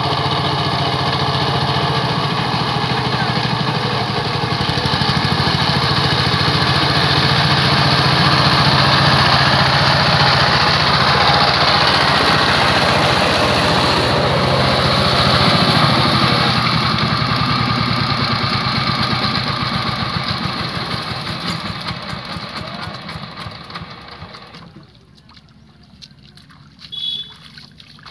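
Power tiller engine running steadily, then fading out over several seconds about three quarters of the way through. A short, sharp sound follows near the end.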